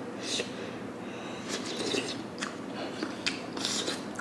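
Close-miked eating sounds: a short slurp of hot sundae-gukbap broth from a wooden spoon right at the start, then chewing with small wet clicking mouth sounds.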